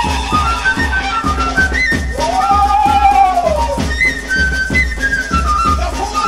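Peruvian Amazonian folk dance music: a high melody over a steady drum beat, with one long sliding note that rises and then falls in the middle.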